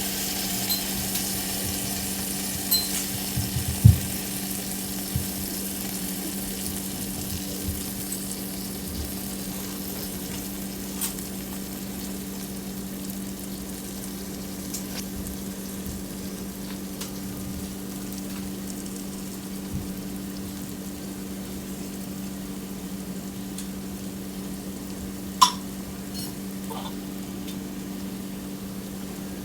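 Food sizzling in a pressure cooker on the stove, with a steady low hum underneath. A few sharp knocks sound, the loudest about four seconds in and another near the end.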